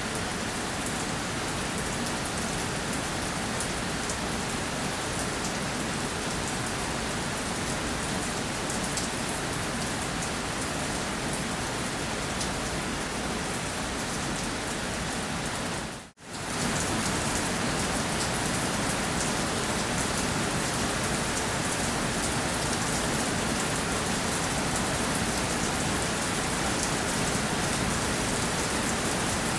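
Steady rainfall, an even dense patter of drops on a surface. About halfway through it cuts out for a split second and comes back slightly louder, like a splice in the recording.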